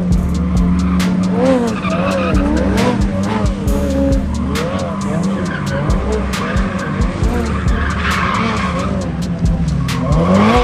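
A car's engine running hard with its tyres skidding, loud throughout, over repeating low pulses.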